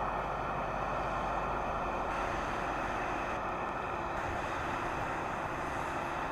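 Steady running noise of a train in motion: an even rushing sound at a constant level, with a few faint steady tones fading in and out.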